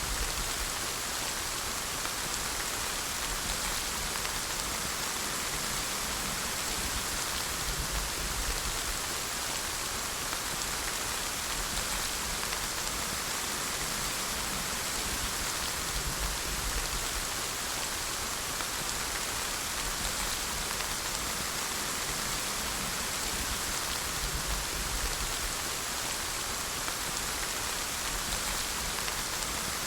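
Steady rainfall: an even, dense hiss of rain falling on surfaces, with no distinct drops standing out.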